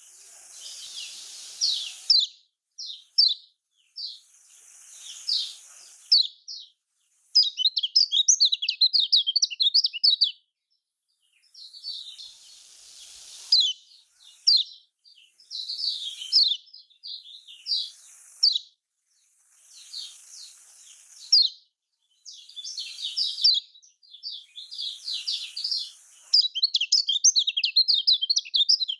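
Kecial kuning, a Lombok white-eye, singing: bouts of rapid, high chirping notes every two seconds or so, each with a faint hiss behind it, running into a fast continuous twitter near the end.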